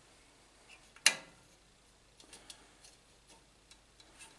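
Small engine parts and hand tools being handled during reassembly: one sharp click about a second in, then a few faint light ticks.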